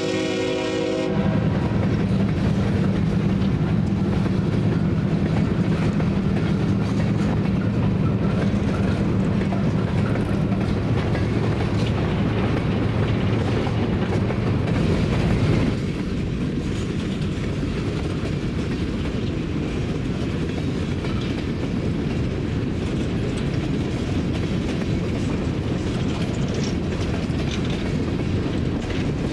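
A freight train's horn sounds and cuts off about a second in, then a long string of open-top hopper cars rolls past with a steady rumble and wheel clatter. Just past halfway the sound drops abruptly to a somewhat quieter, steady rolling noise.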